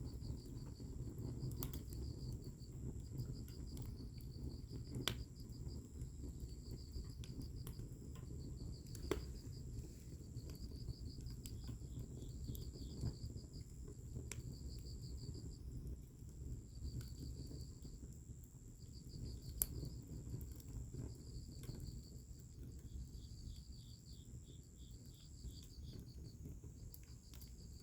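Wood fire burning with a low rumble and a few sharp pops of crackling wood, while crickets chirp in repeated pulsed trills over a steady high insect note.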